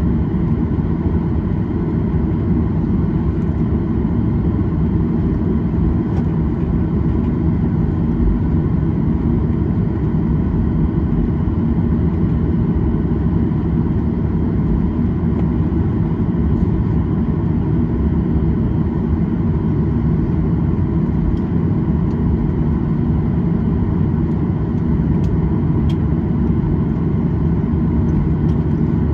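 Steady cabin noise inside a Boeing 737-800 taxiing on the ground: its CFM56 turbofans at idle give a low, even rumble with a faint steady whine on top.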